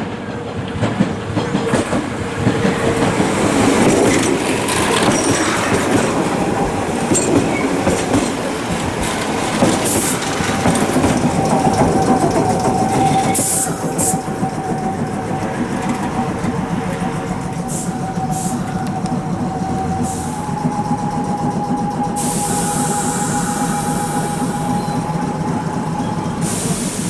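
Nose Electric Railway 1700 series electric train moving through the station, with clicks of wheels over rail joints and a steady whine from the train that steps slightly higher about two-thirds of the way in.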